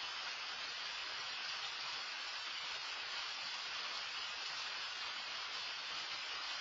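Rain falling steadily: an even hiss with no single drops or knocks standing out.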